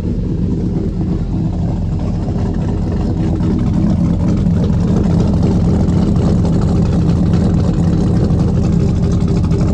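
Chevy S10's swapped-in 5.3-litre LS V8 idling loudly and steadily, getting a little louder about four seconds in.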